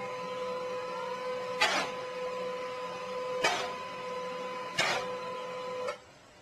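A small machine's steady hum, broken by three loud clacks a second and a half to two seconds apart; the hum stops near the end.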